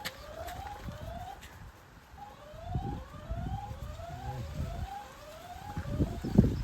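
A siren going in short rising sweeps, about two a second, with low thumps and rumbling under it that grow louder near the end.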